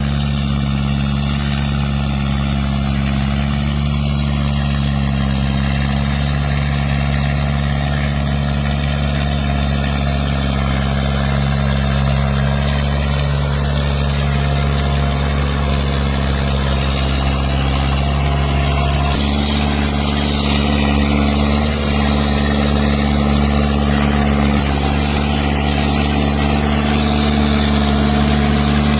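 Massey Ferguson 265 tractor's diesel engine running steadily while pulling a fully loaded trolley. Its pitch rises a little about two-thirds of the way through.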